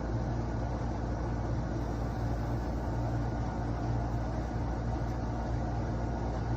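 A steady low mechanical hum at a constant pitch, like a small motor running.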